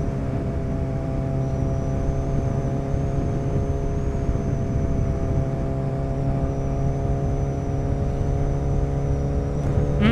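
Suzuki Hayabusa's inline-four engine running at a steady cruising speed, holding one even pitch with no revving or gear changes, under a constant rush of wind and road noise.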